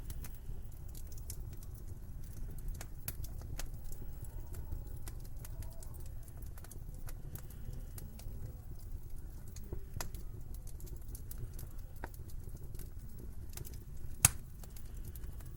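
Wood fire in a fireplace crackling, with many small irregular snaps over a steady low rumble. One much louder, sharp pop comes near the end.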